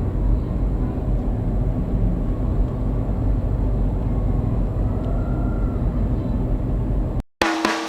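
Steady low rumble from the deck of a river cruise ship under way. It cuts off sharply near the end, and music with drums begins.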